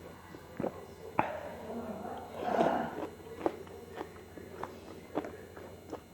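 Close-miked mouth sounds of eating meatballs in spicy broth: sharp wet clicks and smacks of chewing, about one or two a second, with a longer rushing sound, the loudest part, about halfway through.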